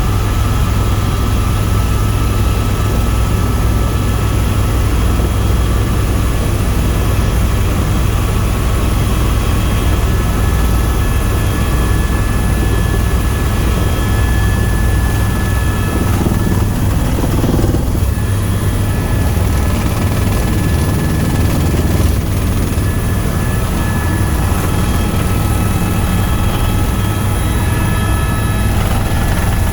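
Tour helicopter in flight: a loud, steady low drone of rotor and engine with faint constant whine tones over it.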